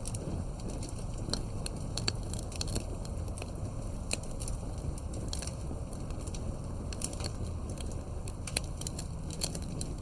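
Campfire burning, crackling with frequent irregular sharp pops over a steady low rumble.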